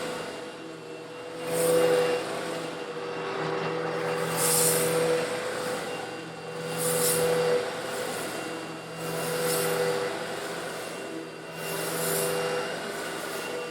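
Old Eureka vacuum cleaner running steadily while sucking up coarse stone granules slightly larger than sand. A bright, gritty rattling hiss swells over the motor's hum about every two and a half seconds, five times in all.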